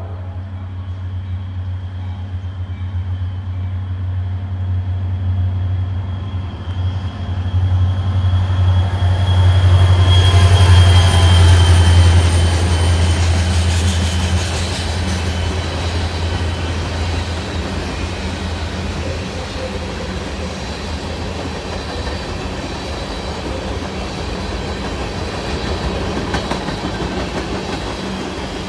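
CSX diesel freight locomotive passing close by, its deep engine drone building to a peak about ten to twelve seconds in and then fading, with a thin high wheel squeal as it goes by. Covered hopper cars then roll past with a steady rumble of wheels on rail.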